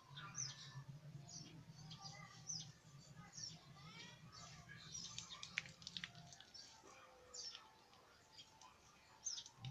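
Faint chirping of small birds: many short, high, quick chirps scattered throughout. A low hum runs underneath and stops about six seconds in.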